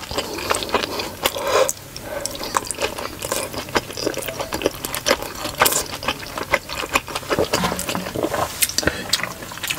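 Close-up wet chewing and mouth smacking while eating a steamed pork momo, heard as many quick clicks and squelches.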